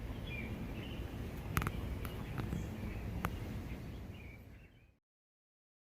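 Outdoor ambience with faint, brief bird chirps and a few sharp clicks, fading out to silence near the end.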